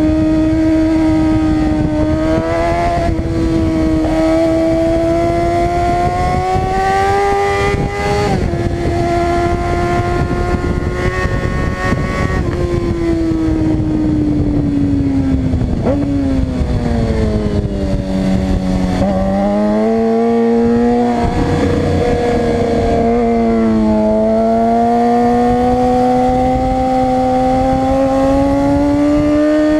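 Suzuki GSX-R600 inline-four sport-bike engine at track pace: the revs climb with quick drops at upshifts a few seconds in and around eight seconds in. The revs then fall steadily through downshifts for a braking zone and climb again through the last third.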